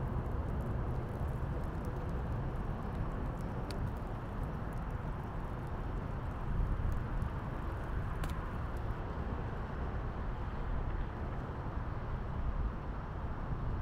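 Steady low rumble of city traffic and wind, with a couple of faint crackles from the fire about four and eight seconds in.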